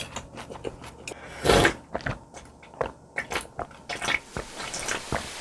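A person eating close to the microphone: biting and chewing with small crunches and wet clicks, and one louder burst about one and a half seconds in.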